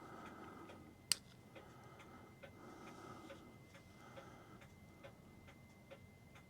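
New England Clock Company clock movement ticking steadily, a little over two ticks a second, with one sharp, louder click about a second in.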